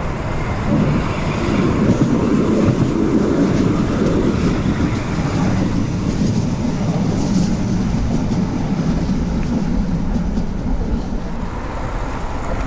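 Rumble of a West Midlands Metro tram running close by on its track. It swells over the first couple of seconds, stays strongest for a few seconds, then slowly fades.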